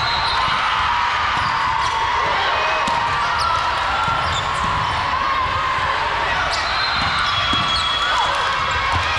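Busy indoor volleyball court: sneakers squeaking on the gym floor, a background of voices, and a few sharp ball hits.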